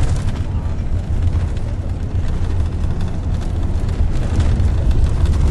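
Strong wind buffeting the microphone: a loud, uneven low rumble that swells and dips.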